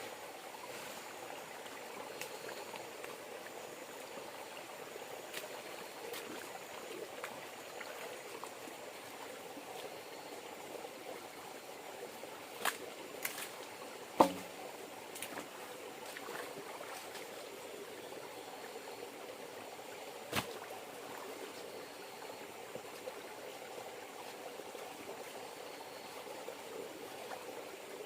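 River water flowing and trickling steadily, with a few sharp knocks, the loudest about halfway through.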